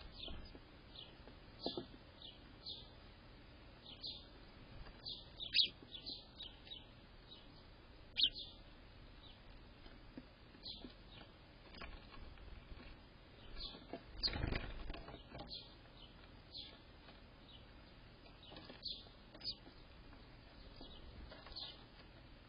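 Small birds chirping: short, high chirps repeated irregularly throughout, with a brief low rustle about fourteen seconds in.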